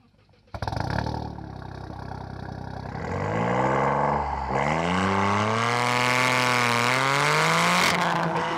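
Toyota GR Yaris's turbocharged 1.6-litre three-cylinder engine and exhaust, heard close at the tailpipes. It cuts in about half a second in and runs steadily, then accelerates with rising pitch, drops at an upshift about four and a half seconds in, and climbs again through the next gear.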